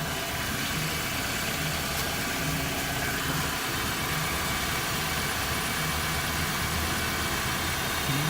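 Car engine idling steadily, just refilled with fresh motor oil and sounding smooth.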